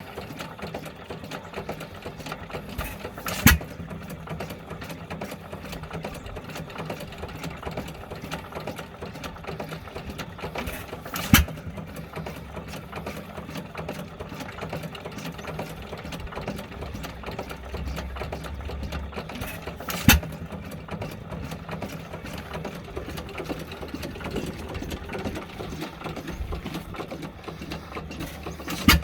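1908 International Harvester Famous 4 hp hit-and-miss stationary engine running unloaded, coasting on its flywheels with a steady mechanical clatter and firing with a sharp bang about every eight seconds, four times.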